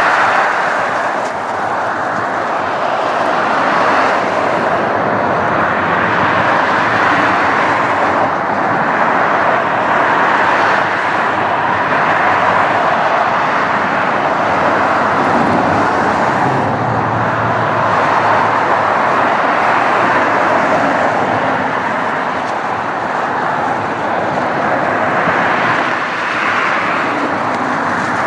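Jet airliner engines running: a loud, steady rushing noise that swells and eases slightly.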